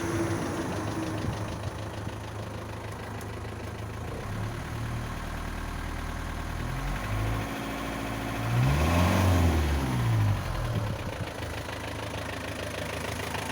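Warm Isuzu NPR turbo diesel engine idling, revved briefly twice: a small rise in pitch about seven seconds in, then a louder rev about two seconds later that climbs and falls back to idle.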